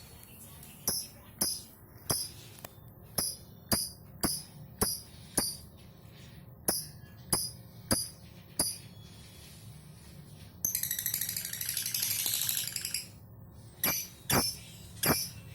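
Lovebird calling: a string of short, sharp, high chirps at about two a second, broken by a long chattering trill (the 'ngekek') of about two and a half seconds a little past the middle, before the chirps resume.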